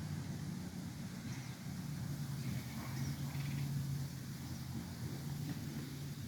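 A steady low hum with a few faint, short bird chirps scattered over it.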